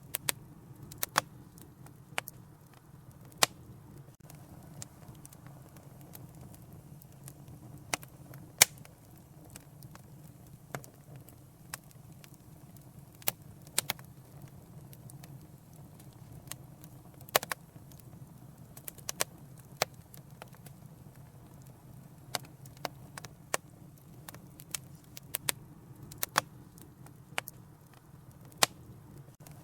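Wood fire in a fireplace crackling: sharp pops and snaps at irregular intervals, sometimes a few close together, over a low steady rush of the burning.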